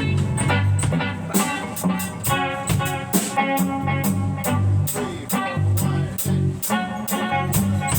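A band playing a song: guitar chords over bass and drum kit, with cymbal hits on a steady beat that grows stronger about a second and a half in.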